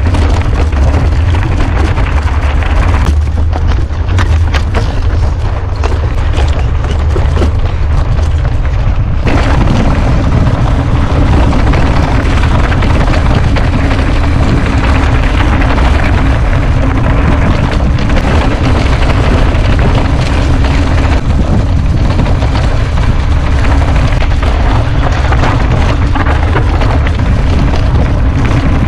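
Wind buffeting on the microphone of a moving mountain bike, over the rough, continuous rumble and rattle of the bike on a dirt trail. The rattle thins out for a few seconds, then comes back about nine seconds in.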